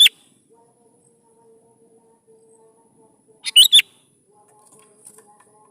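Sooty-headed bulbul singing short, loud whistled phrases: one right at the start and another about three and a half seconds in, with a faint steady hum between them.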